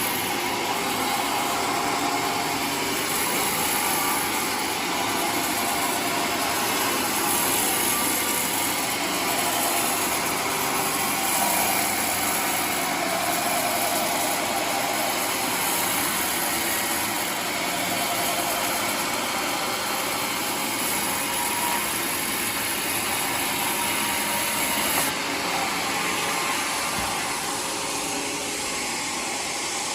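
Homemade sawmill running steadily with a dense, even machine noise from its engine and saw. The highest hiss drops away about 25 seconds in.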